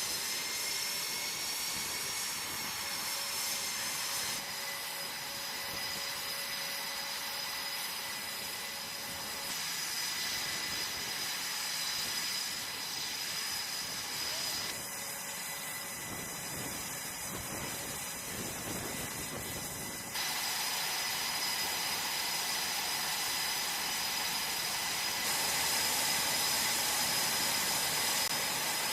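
Jet aircraft engines running, a steady rushing noise with a high whine, changing abruptly several times.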